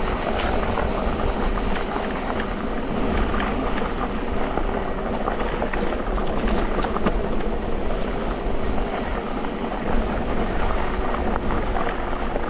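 Electric mountain bike rolling over a dirt trail: a steady rumble of knobby tyres on the ground with many small rattles and clicks from the bike.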